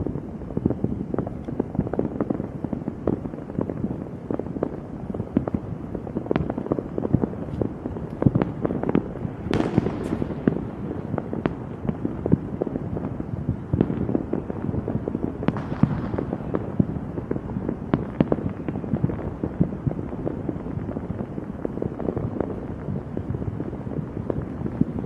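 Fireworks going off in a rapid, continuous barrage of cracks and bangs, with a couple of louder crackling bursts about ten and sixteen seconds in.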